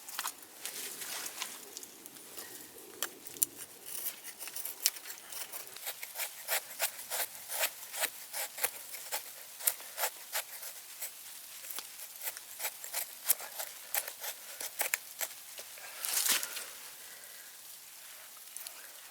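A run of small, sharp, irregular clicks and snaps, several a second. A brief louder rustle comes about sixteen seconds in.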